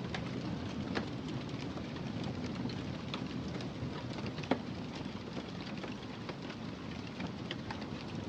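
Wood fire crackling steadily over a low rumble, with scattered sharp pops; the loudest pop comes about four and a half seconds in.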